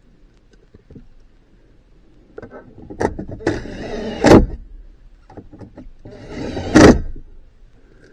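Plastic dashboard trim being worked into place, with two stretches of scraping and rubbing, each ending in a sharp loud snap as the clips seat.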